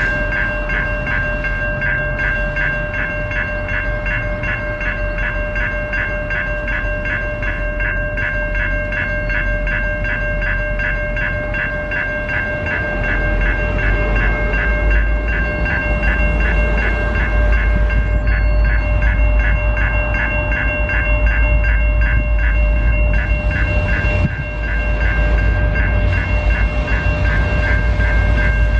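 Railway level-crossing warning bell ringing in a fast, even pulse, with the low rumble of a passing train growing louder about halfway through.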